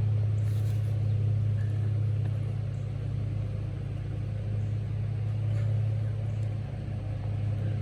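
An engine running steadily at an even low pitch, with no revving.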